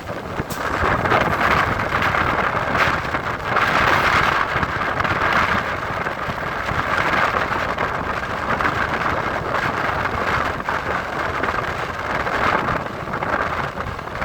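EMU electric local train running at speed, heard from on board: a steady loud rumble and clatter of wheels on the rails mixed with the rush of air past the open doors and windows.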